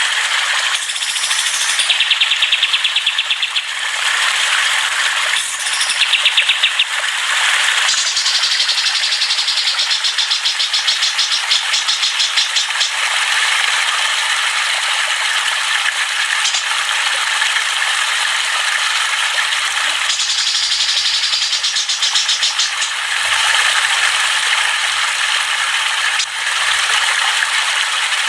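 Dense chorus of small caged songbirds (ocehan birds) chattering and singing in fast, rattling trills that overlap without a break.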